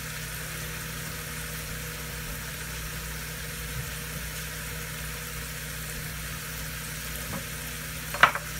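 Food frying in pans on the stovetop: a steady, even sizzle over a low hum. A sharp metal clink sounds near the end.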